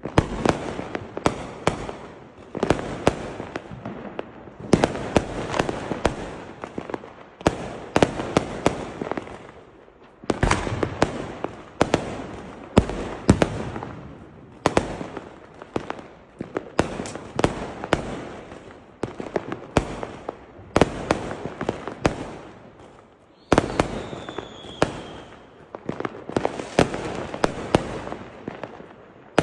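Firecrackers going off in rapid runs of sharp bangs and crackles, a new cluster about every two seconds. About twenty-four seconds in, a short falling whistle sounds among the bangs.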